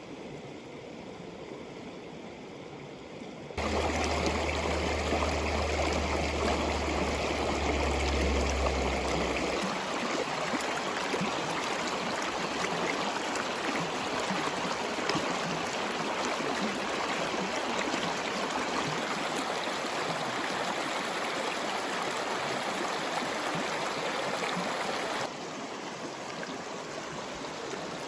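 Rushing water, a steady noisy rush. It jumps louder suddenly a few seconds in, with a low hum beneath it for several seconds, and drops back suddenly near the end.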